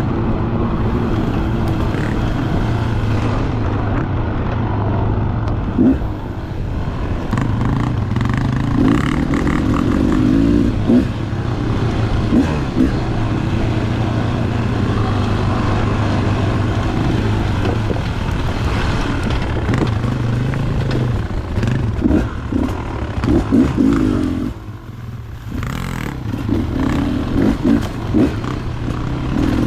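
Two-stroke dirt bike engine running under varying throttle, with scattered knocks and clatter; the throttle drops off briefly about 25 seconds in, then picks up again.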